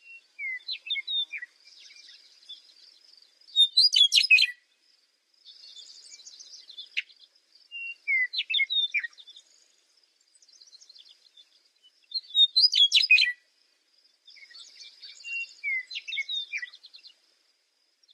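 Birdsong: loud phrases of rapid high chirps about four seconds in and again about two-thirds of the way through, with softer twittering and chattering calls in between.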